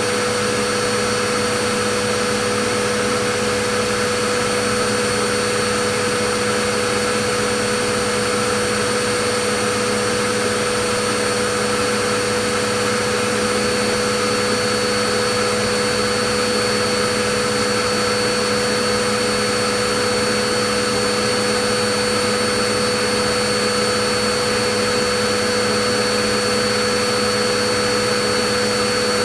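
Vacuum cleaner running continuously, a steady rushing drone with a constant motor whine on top that never changes in pitch or level.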